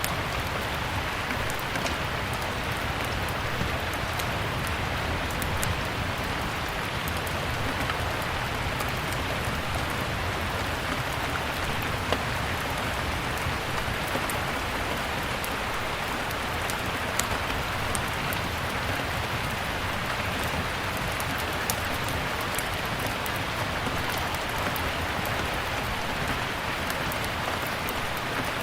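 Steady rain, with scattered sharp pops and crackles from a wood fire in a fireplace.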